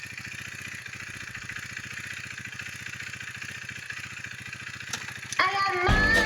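Husqvarna Svartpilen 401's single-cylinder engine idling steadily, with a fast, even pulse. Music comes in near the end.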